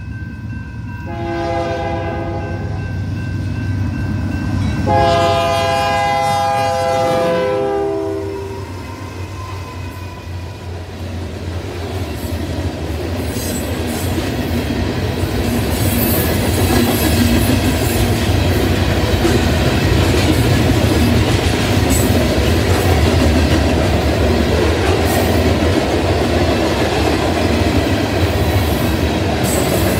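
Union Pacific freight locomotive's air horn sounding for a grade crossing: a blast and then a longer one whose chord drops in pitch near its end as the locomotive passes. Then the freight cars roll by, a rumble with wheel clickety-clack that grows louder.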